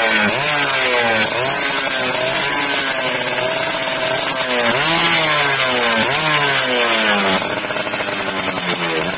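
Yamaha F1Z R 110 cc single-cylinder two-stroke engine revved repeatedly through a racing exhaust. It gives a raspy buzz whose pitch climbs and drops back with each blip of the throttle.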